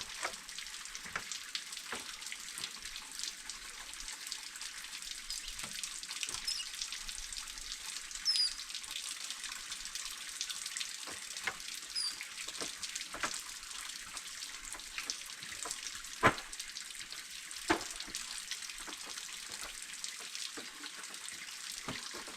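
Water pattering and dripping: many separate drops tick irregularly over a steady hiss, with a few louder single drops and a couple of faint high chirps.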